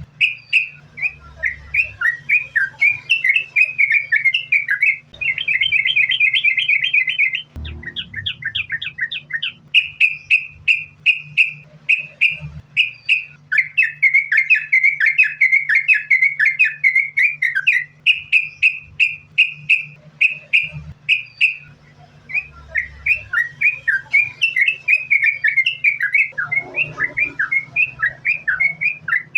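Yellow-vented bulbul singing nonstop, long runs of quick repeated chirps running into bubbly warbled phrases, over a faint steady low hum.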